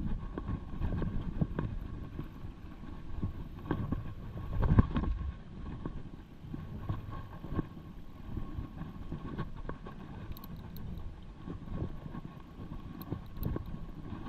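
A mountain bike being ridden over rough ground, with tyre rumble and many short knocks and rattles from the bike, and wind buffeting the microphone. There is a heavier jolt about four to five seconds in.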